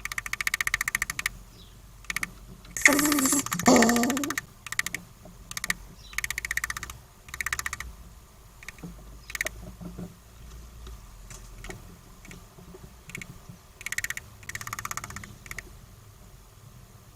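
A squirrel giving its rapid, clicking chatter call in short bouts of about a second each, spaced a few seconds apart: a territorial warning that drives off another squirrel.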